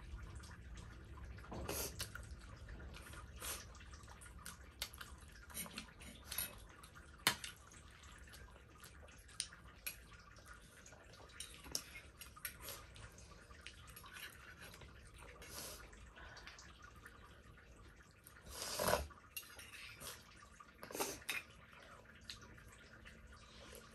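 Eating at a table: scattered small clicks and taps of spoons and plates with wet mouth sounds of chewing and slurping, and a louder clatter about nineteen seconds in.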